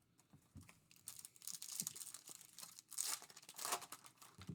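Trading-card packaging being torn open and crinkled by hand in a few short bursts, as a Topps Chrome hobby box and its packs are opened.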